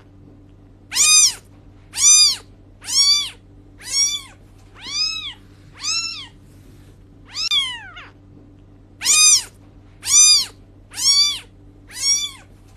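A cat meowing over and over, about one meow a second, each rising and then falling in pitch, with a short pause about two-thirds of the way through. A steady low hum runs underneath.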